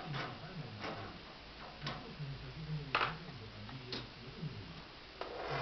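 Wood fire in a fireplace crackling, with irregular sharp pops about once a second, the loudest about three seconds in.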